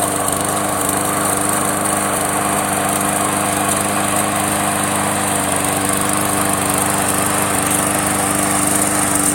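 Remote-controlled push mower running steadily, holding an even pitch.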